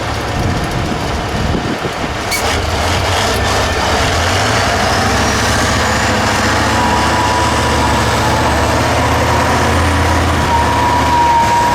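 A 6x6 trial truck's engine running hard under load, its low rumble building after about two seconds and then holding steady. A few sharp knocks come early, and a thin whistle-like tone joins over the second half.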